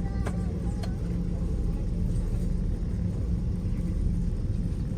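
Steady low rumble and hum of an Airbus A321neo cabin on the ground, with a couple of faint voices in the first second.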